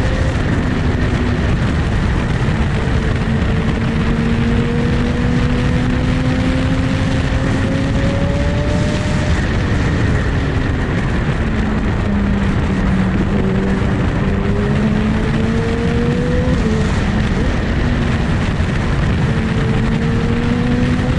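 Superbike engine running under way, its pitch climbing slowly, easing off and climbing again, over a loud steady rush of noise.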